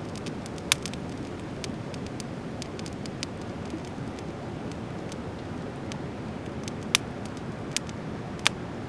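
Driftwood campfire crackling: many small ticks and four sharp pops, one near the start and three close together near the end, over a steady rushing background noise.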